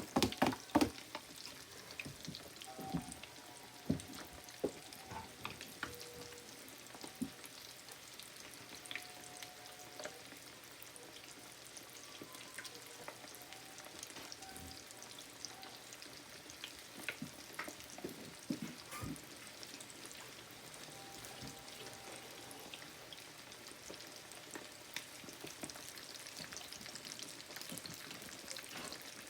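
Pork-rind-breaded chicken breast pieces frying in a pan of hot oil: a steady sizzle with scattered crackling pops. The pops are loudest in the first second or so, just after the pieces go into the oil.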